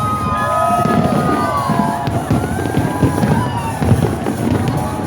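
Fireworks display bursting in rapid succession: a dense run of low booms and sharp crackles, with several gliding whistle tones rising and falling above them.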